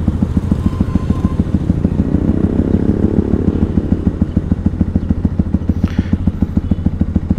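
Yamaha WR155R's bored-up single-cylinder engine idling with a steady, even low pulse while the bike stands still.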